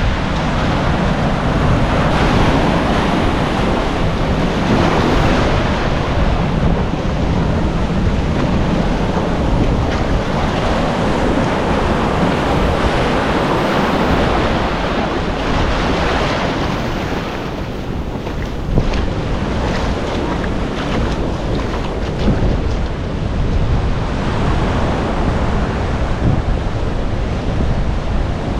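Sea surf washing against a rocky shore in slow swells, with wind buffeting the microphone. A couple of brief knocks sound in the middle.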